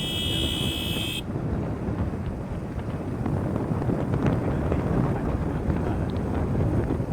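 Wind buffeting the microphone: a steady low rumble. A brief high-pitched whine of several tones sounds over it during the first second.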